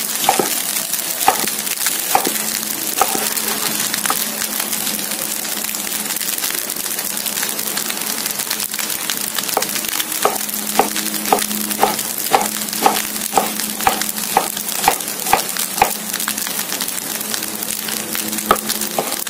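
Fried rice sizzling in a pan over a steady low hum. From about ten seconds in, a knife chops on a wooden cutting board about twice a second for roughly six seconds, with a couple more chops near the end.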